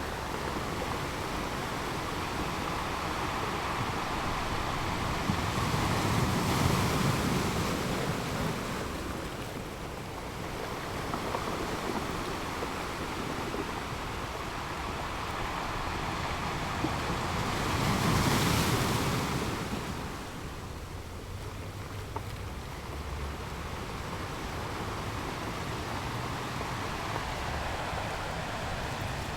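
Sea waves washing onto a sandy beach in a continuous rush of surf. Two waves break noticeably louder, about six seconds in and again about eighteen seconds in.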